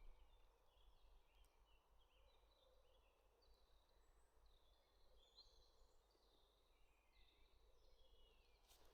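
Near silence in a forest, with faint distant birdsong: many short high chirps and brief trills.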